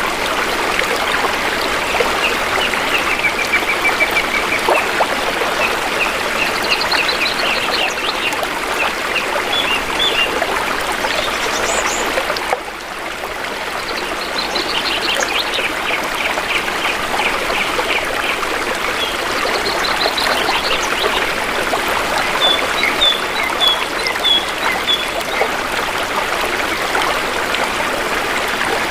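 Shallow river water flowing with a steady rush and trickle, while small forest birds call over it in short repeated chirps and trills. The water's level dips briefly about halfway through.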